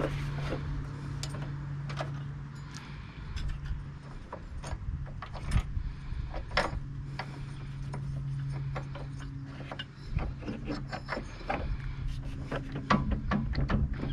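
Tools and metal parts clicking and knocking during disassembly of a Tecumseh 5.5 hp snowblower engine. The clicks come in a quick run over the last few seconds, over a steady low hum.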